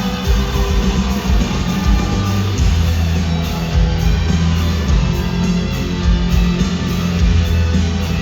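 Live rock band playing an instrumental passage, with electric guitars over bass and drums, heard loud through a large outdoor concert PA.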